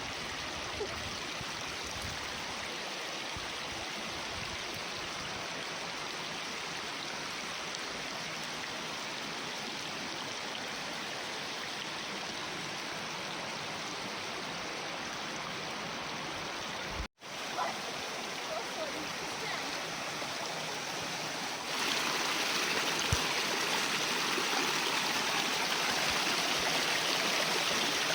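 Fast-flowing water rushing over rocks, a steady rush. It breaks off for a moment about two-thirds of the way in, then comes back louder and brighter near the end.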